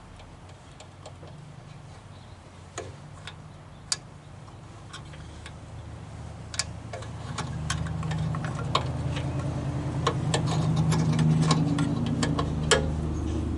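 Small parts clicking and tapping as they are handled and fitted together by hand, in irregular single clicks. A low engine-like hum comes in about halfway through and grows louder.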